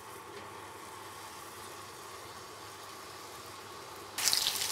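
A steady faint hum, then near the end a sudden loud sizzle and crackle as blended spice paste starts frying in a little hot oil in a wok.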